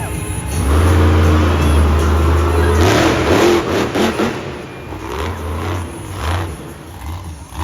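Mega Rex monster truck's engine revving hard. The throttle is held open for a couple of seconds, then blipped on and off repeatedly.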